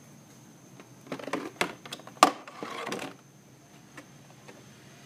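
Handling clatter: a quick run of clicks and knocks over about two seconds, the sharpest a little after two seconds in.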